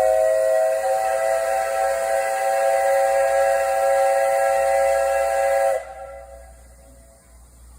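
Steam whistle of the SL Hitoyoshi's 8620-class steam locomotive sounding a long departure blast of several tones at once, which cuts off suddenly about six seconds in and leaves a faint hiss.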